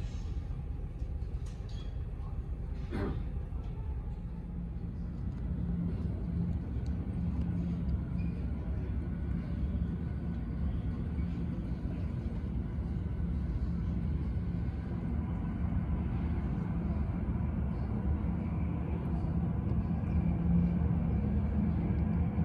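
Steady low engine rumble with a faint humming tone, slowly growing louder through the second half. A brief sharp sound comes about three seconds in.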